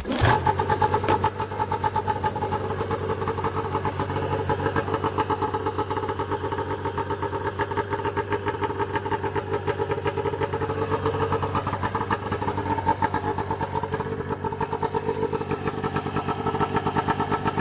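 Arctic Cat Cougar 550 snowmobile's two-stroke twin catches at the very start, then idles steadily with a fast, even pulse. The engine is running on a freshly rebuilt top end with new pistons and cylinder, not yet broken in.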